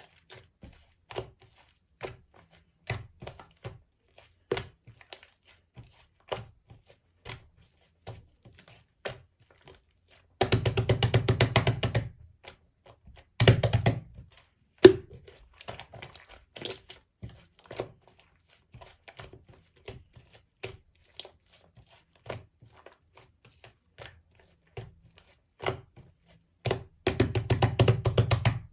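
Slime with clay mixed in being kneaded and pressed by hand: scattered sticky clicks and small pops, with three bursts of rapid crackling clicks, each one to two seconds long, as it is worked fast.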